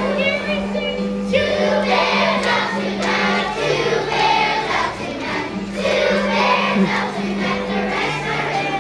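A group of first-grade children singing together in chorus over low held accompaniment notes that change pitch a few times.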